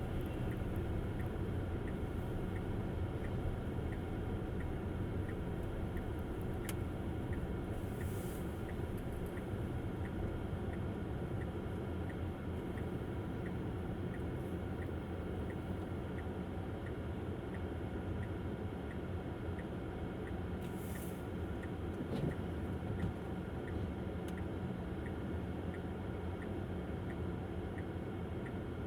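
Tesla Model S driving on a snowy road: steady low tyre and road noise, with a faint regular tick a little under twice a second. Two brief hisses come about eight and twenty-one seconds in.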